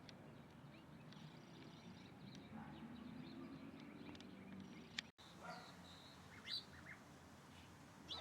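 Faint short bird chirps and calls, scattered and high-pitched, over a low background hum, with a click and a brief gap in the sound about five seconds in and a few sharper chirps after it.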